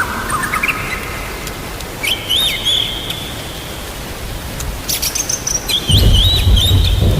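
A songbird sings clear whistled phrases with quick upward glides, over a steady hiss of rain. Near the end a low rumble of thunder comes in.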